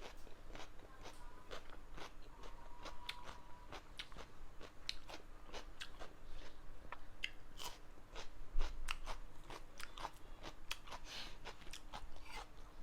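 Crunchy close-miked chewing: biting into and chewing raw onion, many crisp crunches in quick succession.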